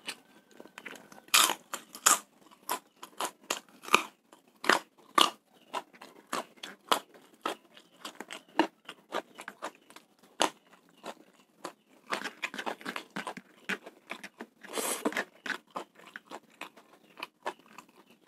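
Close-up chewing of a mouthful of fried rice with crunchy crackers: a steady run of sharp crunches and bites, coming in louder clusters, the loudest about fifteen seconds in.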